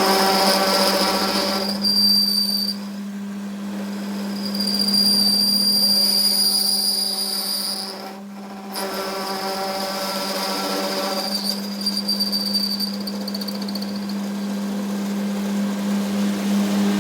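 Workshop machine running with a steady low hum, and a high-pitched squeal that starts and stops several times.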